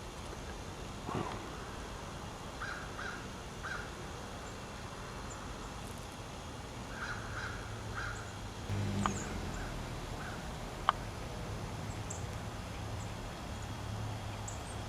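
Crows cawing, faint: two runs of about three short caws each, with a few more caws later, over a steady low background rumble. A single sharp click comes near the end.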